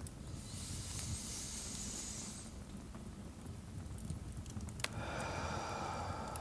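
A slow deep breath: a long airy inhale, a pause, then a long breathy exhale starting near the end. Faint fireplace crackle runs underneath.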